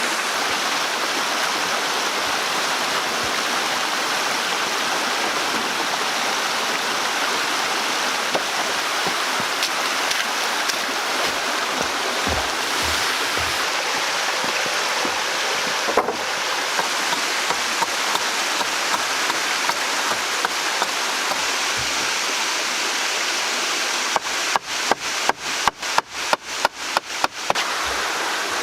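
Steady rushing of running water. Near the end comes a quick run of about a dozen sharp knocks, about four a second, like hammer blows.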